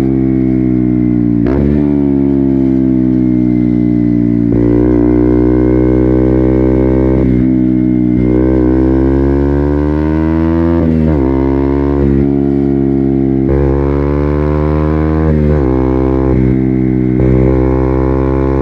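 KTM Duke 200's single-cylinder engine through an Akrapovic full-system exhaust, ridden on the road: the engine note climbs under throttle and dips sharply every few seconds as the throttle closes and gears change.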